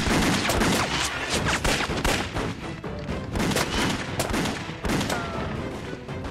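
Film gunfight sound effects: a rapid, irregular volley of gunshots, with background music underneath.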